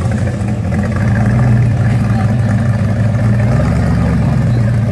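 Hot-rod panel van's engine rumbling loudly at low revs as it pulls away, deepening slightly a little past three seconds in.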